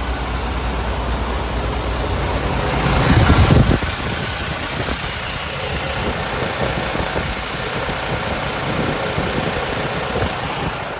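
Diesel engine of a MAN TGS 33.400 6x4 tipper truck idling. It swells into a louder surge about three seconds in, which cuts off abruptly, then runs on more roughly.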